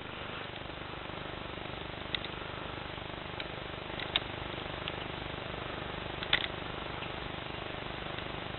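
Steady hiss of outdoor background noise, with a few brief faint clicks, the loudest about six seconds in.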